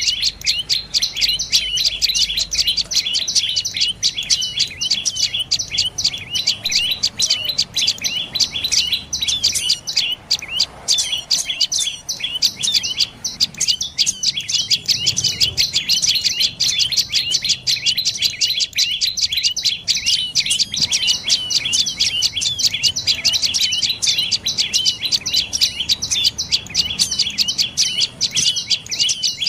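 Dark-necked tailorbird calling: a fast, unbroken series of short, high, sharp notes, about five or six a second.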